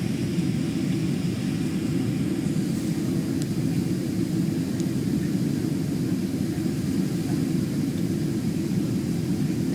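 Steady cabin noise inside a Boeing 767-300 airliner on its approach to landing: an even, low rush of jet engines and airflow.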